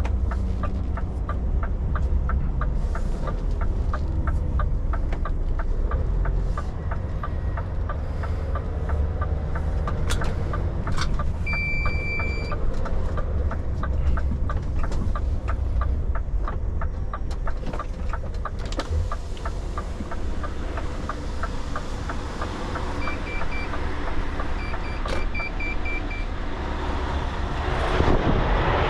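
Truck driving, its engine and road noise making a steady low rumble, with a regular fast ticking and a few short electronic beeps, one about midway and a quick series later, and a rush of noise near the end.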